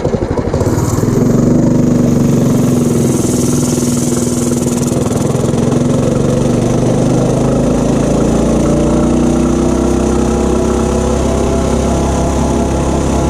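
Tillotson 212 single-cylinder four-stroke engine on a Coleman CT200U-A mini bike pulling hard on a top speed run. About a second in it comes up to speed, and its pitch then climbs slowly and steadily as the bike keeps accelerating.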